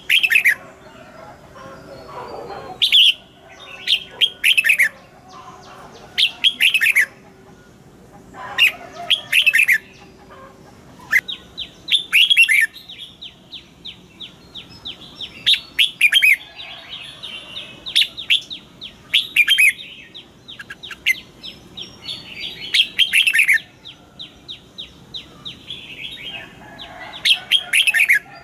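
Red-whiskered bulbuls singing: short, bright phrases that sweep down in pitch, repeated every second or two, with a fast run of short high notes, about five a second, for several seconds in the middle.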